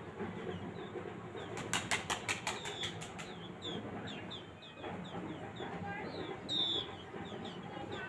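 Small birds calling in a tree: short, high, falling chirps repeated a few times a second, over steady background noise. About two seconds in comes a quick run of sharp clicks.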